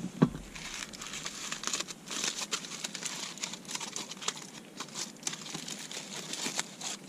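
Wrapping around a fire-heated acorn squash crinkling and crumpling as it is handled and opened, a dense run of small crackles with one sharp knock about a quarter second in.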